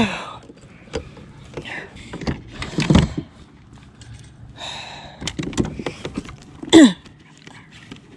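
Knocks, clicks and rustling of handling gear in a kayak, one louder low knock about three seconds in, with two short wordless vocal sounds that fall in pitch, one at the start and one near the end.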